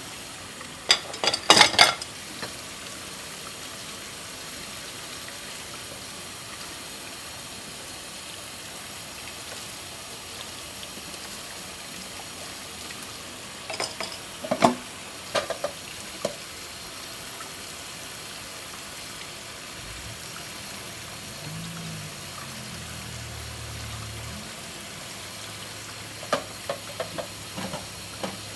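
Tap water running steadily into a sink while dishes are washed by hand, with dishes and cutlery clinking in short clusters near the start, about halfway through and near the end.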